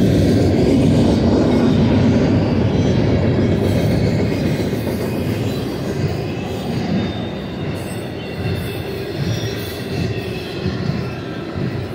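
Intermodal freight train's double-stack well cars and trailer flatcars rolling past at speed: a steady heavy rumble of steel wheels on rail that eases a little after about four seconds, with a faint high wheel squeal over it.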